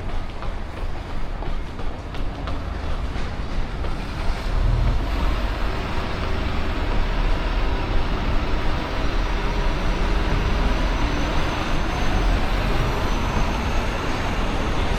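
Road traffic on a city street, with a heavy vehicle such as a truck or bus among it, heard over a steady low rumble. It grows louder about five seconds in.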